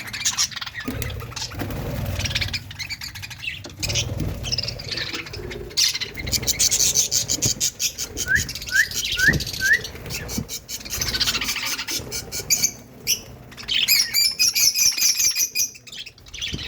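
Budgerigars chattering and warbling, with a run of four short rising chirps about halfway through.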